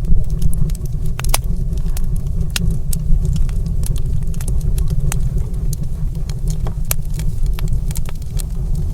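Fireplace fire crackling, with sharp irregular pops and snaps over a steady low rumble.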